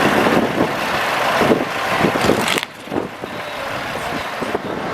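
Heavy diesel vehicle running, the noise dropping abruptly about two and a half seconds in.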